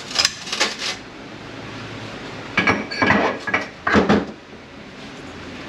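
Metal parts of an 8L90 automatic transmission clinking and clanking as they are handled during disassembly: a few quick clicks in the first second, then a cluster of louder metallic clanks with a short ring, loudest about four seconds in.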